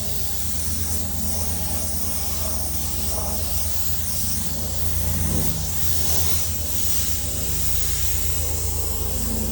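Air-fed paint spray gun hissing as base coat goes on, swelling and fading with each pass, over a steady low hum.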